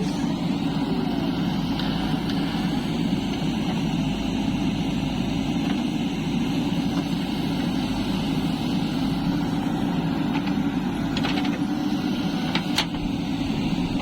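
A heavy diesel engine running steadily at an even speed, with a couple of short clicks near the end.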